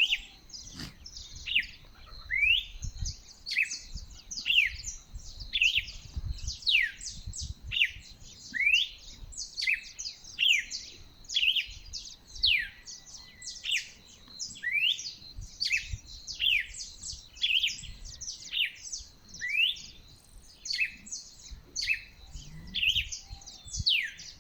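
Dawn chorus of birds: a continuous string of short, sharp calls, most sweeping down in pitch, one or two a second, over a low rumble.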